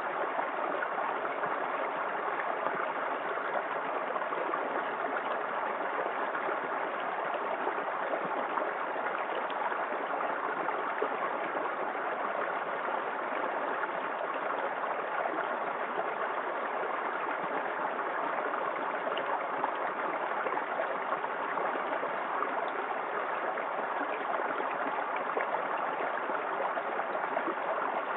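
Small waterfall in a forest creek: water pouring and splashing in a steady, even rush.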